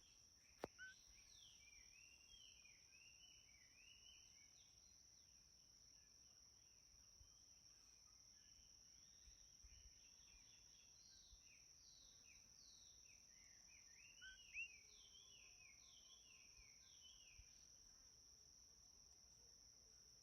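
Faint dusk ambience: a steady high insect drone, like crickets, runs throughout while small birds chirp in quick runs of short falling notes, once near the start and again in the second half. A single sharp click comes under a second in.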